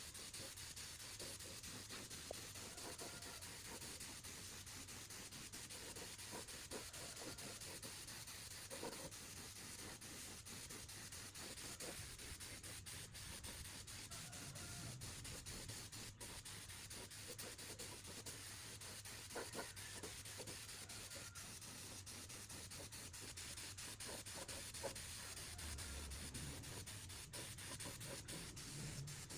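Steady hand rubbing on a metal compressor part, like abrasive sanding or scrubbing, with a few faint light knocks.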